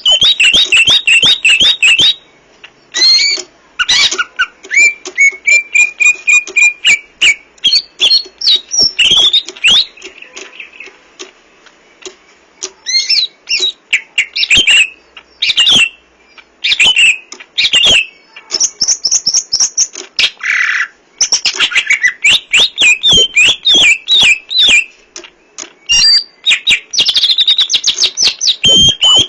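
Green leafbird (cucak ijo) singing a loud, varied song of whistles, rapid chirps and trills in bursts with short pauses between, full of mimicked calls of other birds.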